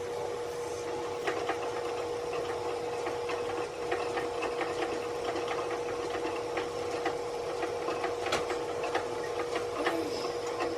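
A machine running with a steady hum that starts suddenly, with irregular clicks and ticks over it.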